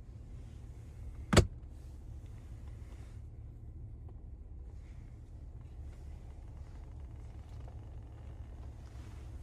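Cabin noise inside a 2024 Cadillac Escalade ESV while driving: a steady low road and engine rumble. One sharp click cuts through about a second and a half in.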